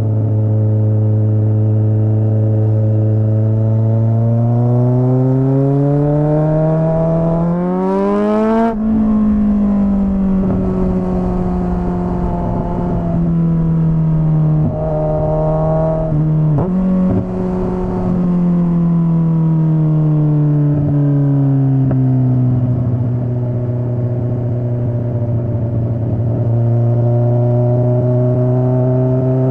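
Straight-piped Kawasaki Z900 inline-four exhaust under way. It runs steady, then revs up over several seconds to a sudden pitch drop at a gear change about nine seconds in. The pitch then slowly falls as it eases off, with short throttle dips around the middle, and it settles back to a steady cruise.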